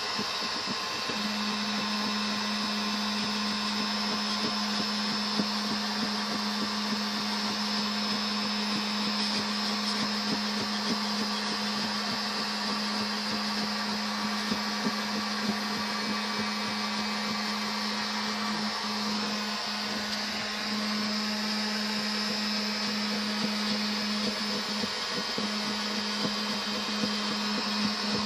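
A small electric motor with a fan running steadily, a constant hum over a rushing whir.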